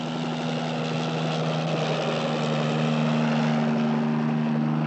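Helicopter running: a continuous drone of engine and rotor with a steady low hum, growing gradually louder.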